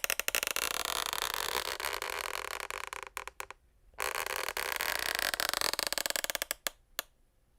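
Wooden parquet floorboards creaking and crackling with rapid small clicks, in two long stretches broken by a short pause about three and a half seconds in, ending in a few separate clicks.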